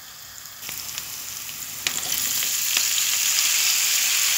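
Chopped vegetables frying in oil in a pan. The sizzle is faint at first and turns much louder and steadier about two seconds in, once carrots and red peppers are in the pan. A few sharp clicks come through the sizzle.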